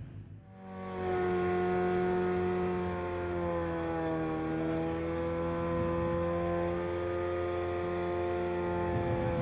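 BMW 3 Series engine held at high revs during a burnout, the tyres spinning on the spot. Its steady high note starts suddenly about half a second in, dips slightly in pitch about four seconds in, then holds.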